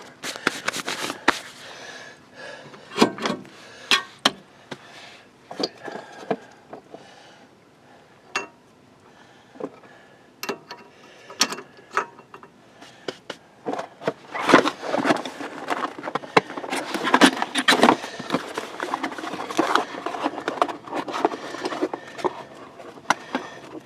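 Clicks, clinks and knocks of metal brake parts being handled and pulled off a disc brake caliper. Scattered at first, with a quieter spell, then a busy run of rapid clicking and clattering in the second half.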